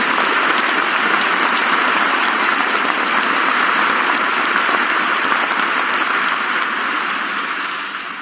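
Applause from many people clapping, steady and then fading out near the end.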